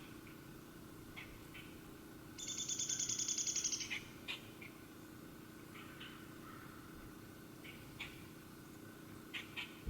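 A small wild animal call: a rapid, high trill lasting about a second and a half, with short high chirps scattered before and after it.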